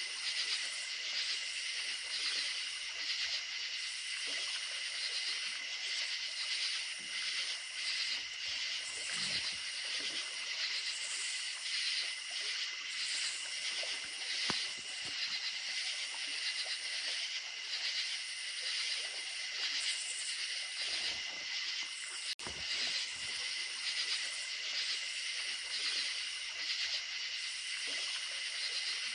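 Night chorus of crickets chirping in a dense, steady high trill over the hiss of a running creek, with one brief dropout about two-thirds of the way through.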